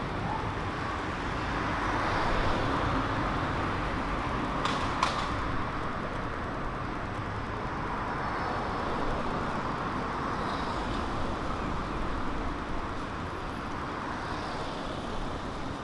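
Steady city-street traffic noise of passing cars, with two short sharp clicks about five seconds in.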